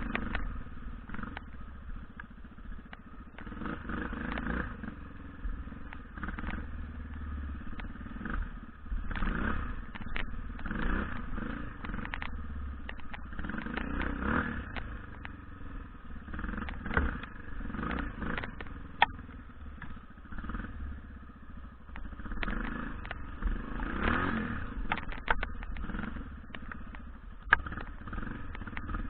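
BM Enduro 250 dirt bike engine revving up and falling back in repeated short surges, with sharp knocks and clacks here and there.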